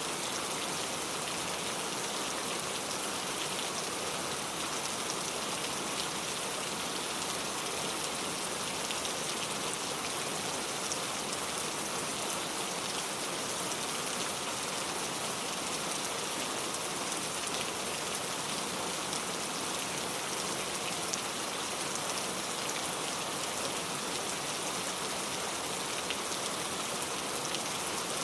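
Steady rain falling, an even patter with many fine drop ticks.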